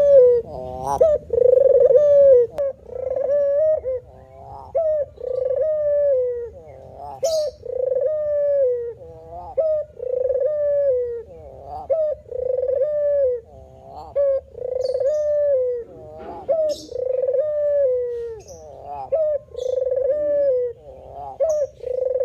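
Male puter dove cooing over and over: low coos repeated about every second and a half, each ending in a short falling slur.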